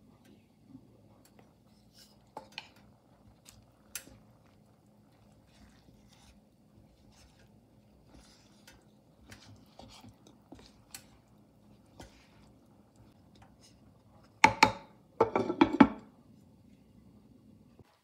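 Kitchen utensils knocking against dishware: scattered light taps and clicks, then a louder, ringing run of clinks and clatter near the end.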